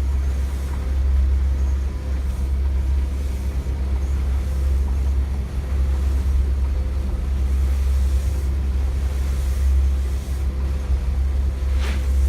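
Strong wind buffeting the microphone: a loud, steady low rumble, with one brief sharper burst near the end.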